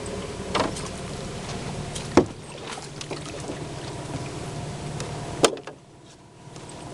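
A boat motor running with a steady hum, with three sharp knocks, about half a second, two seconds and five and a half seconds in. The hum drops out for about a second shortly before the end.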